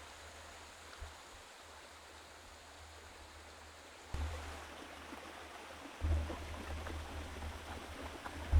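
Steady rushing of flowing water from a forest stream, with a low rumble on the microphone coming in about four seconds in and again about six seconds in.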